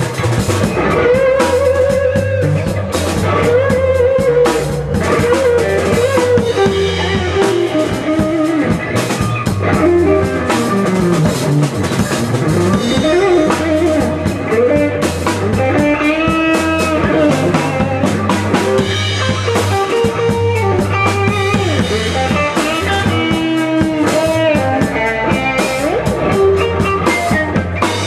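Blues music with no vocals: a lead guitar plays notes that bend up and down over a drum kit and steady low bass notes.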